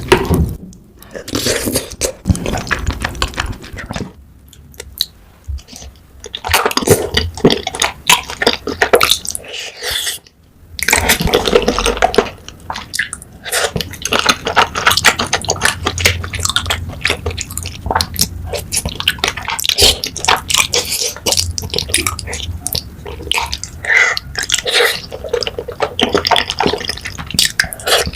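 Close-miked eating sounds of cheesy rose tteokbokki, chewy rice cakes in a creamy sauce: wet chewing and mouth sounds made of many quick, irregular clicks, with short pauses between mouthfuls.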